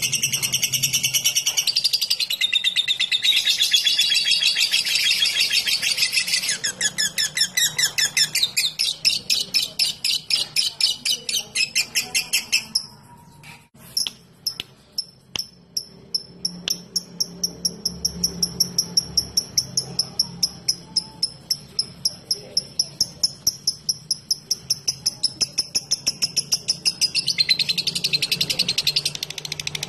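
Lovebird chattering in a dense, continuous stream ('ngekek'). It breaks into a rapid run of evenly spaced ticking notes ('ngetik'), several a second, pauses briefly about halfway, then keeps ticking before going back into the dense chatter near the end.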